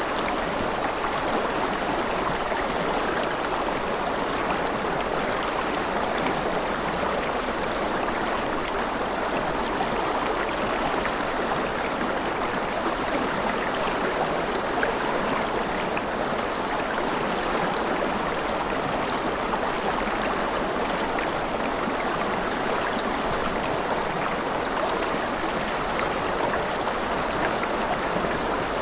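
River water flowing and splashing steadily, a continuous even rush of current with no pauses or distinct events.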